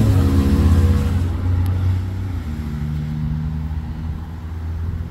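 A motor vehicle's engine running close by, loudest in the first two seconds, then dropping in pitch and fading away as it passes.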